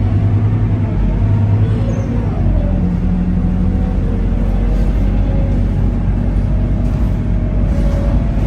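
Scania K230UB city bus's diesel engine and driveline running while under way, heard from inside the bus. The engine note shifts in pitch, dropping about two seconds in.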